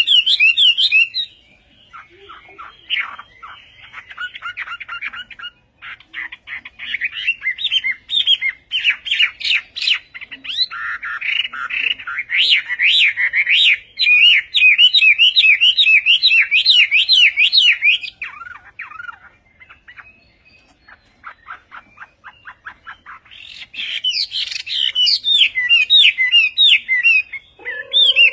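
A hwamei singing: loud, rapid phrases of repeated up-and-down whistled notes, broken by quieter runs of fast chattering notes a few seconds in and again just past the middle.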